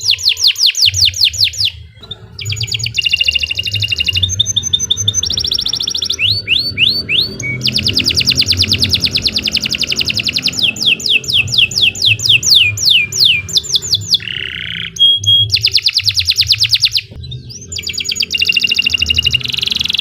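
Domestic canary singing a long, continuous song of fast trills and phrases of rapidly repeated notes, pausing briefly about 2 seconds in and again near 17 seconds, over a low steady hum.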